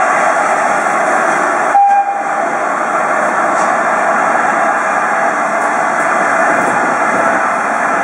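Steady, loud rushing noise from trains standing at a station platform. About two seconds in there is a brief break, followed by a short, faint tone.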